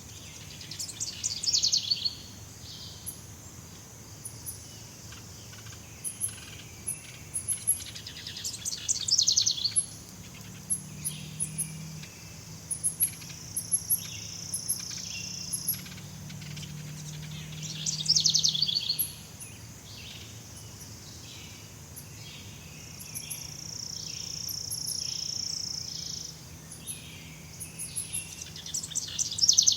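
Jungle ambience: a bird call made of a fast run of notes, repeated about every nine seconds over constant high chirping. A steady high insect buzz swells twice, and a faint low hum sits underneath.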